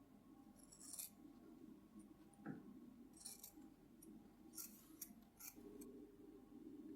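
Near silence broken by a few faint, sharp clicks and snips of small hand tools: one about a second in, then a cluster of several in the middle, over a low hum.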